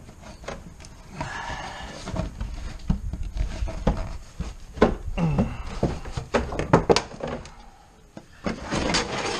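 Irregular knocks, clicks and scrapes of hand tools and removed car parts being handled during an engine removal, with a few sharper clanks in the second half.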